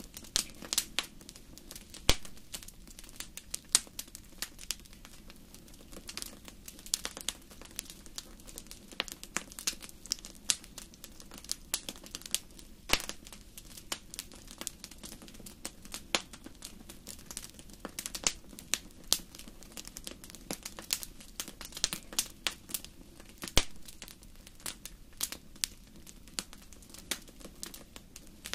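Wood fire in a fireplace crackling: constant irregular sharp pops and snaps, a few much louder than the rest, over a faint low rumble.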